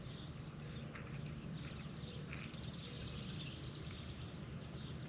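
Scattered short, high bird chirps over a steady low rumble and hiss of outdoor background noise.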